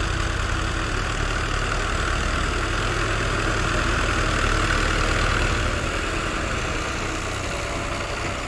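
Fiat tractor's diesel engine running steadily, getting somewhat louder around the middle and easing off toward the end.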